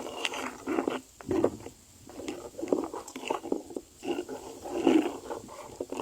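Bird chicks calling in short, irregular bursts, several a second.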